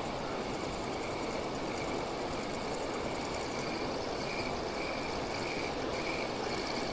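Steady rushing of water pouring over a weir.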